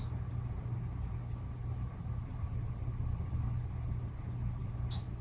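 A steady low mechanical hum, with a faint click at the start and another near the end.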